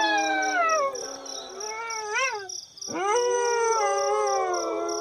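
Wolves howling in chorus. Overlapping long howls slide down in pitch, a short rising-and-falling howl comes about two seconds in, and after a brief pause a new howl rises and is held.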